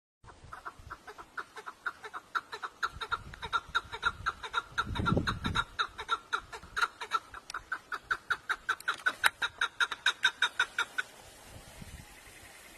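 A bird calling in a long, even series of short clucking notes, about five a second, that stops shortly before the end. A brief low rumble sounds about five seconds in.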